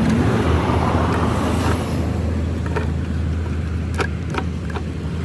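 A motor vehicle's engine running steadily with a low hum, with a rush of passing traffic early on, and a few sharp clicks in the second half.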